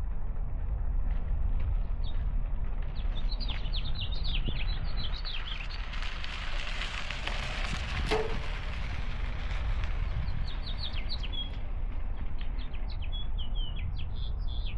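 Small birds chirping in quick short calls, in two flurries, over a constant low rumble of wind on the microphone; a rush of noise swells through the middle with a single sharp click in it.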